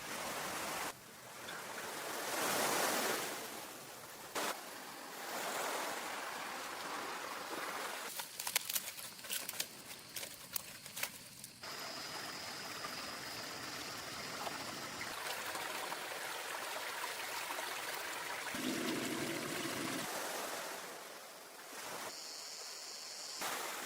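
Sea waves washing on a shore, swelling loudest about two to three seconds in. A quick run of sharp clicks and taps comes about a third of the way through, and a brief low hum near the end.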